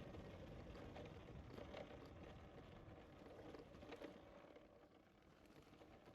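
Near silence: a faint low rumble with a few faint clicks, fading slightly near the end.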